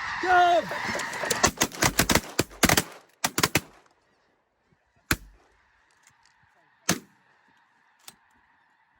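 A big flock of snow geese calling overhead, cut into by a rapid volley of shotgun fire from several hunters, about a dozen shots in two seconds, after which the calling thins out. A few single follow-up shots come after, the last one faint.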